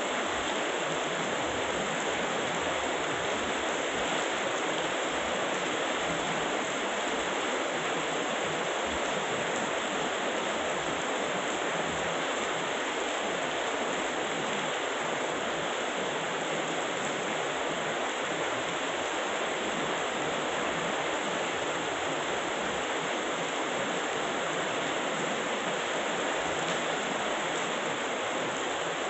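Heavy tropical rain pouring down steadily, a continuous even hiss with no thunder claps.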